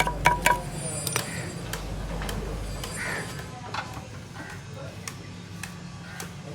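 Sharp metal clinks and taps of hand tools on metal parts, several close together in the first second and a few more later, over a steady low hum.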